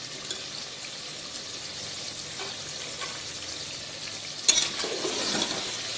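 Beef curry sizzling steadily as it fries in an open metal pressure-cooker pot, its cooking water boiled off so it is now frying dry. About four and a half seconds in, a metal spatula starts scraping and clattering against the pot as the meat is stirred.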